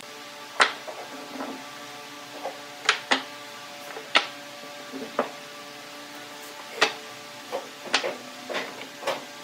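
Irregular sharp taps and knocks of woodworking on wood, about nine in all, some in quick pairs, over soft steady background music.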